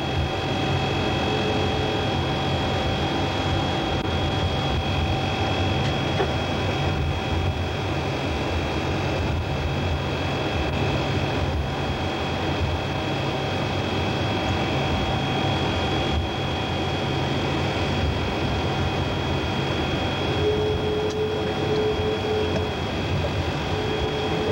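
Steady cabin drone of a Boeing E-3D Sentry AWACS in flight: engine and air-conditioning noise with a constant whine and a low hum. A brief steady tone sounds about a second in and again a few times near the end.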